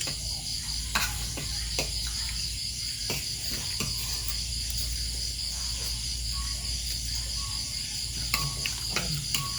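Steady, pulsing chorus of crickets or similar night insects, with a few scattered short clicks and knocks.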